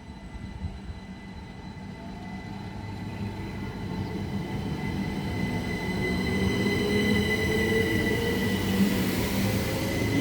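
Class 375 Electrostar electric multiple unit pulling away, its traction motors whining and rising in pitch as it gathers speed, growing steadily louder.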